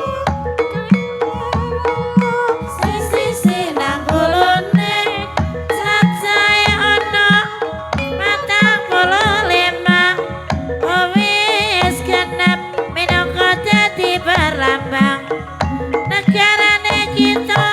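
Javanese Banyumasan gamelan music (gending for ebeg) with regular hand-drum strokes and steady metallophone tones. From about two and a half seconds in, a wavering singing voice joins.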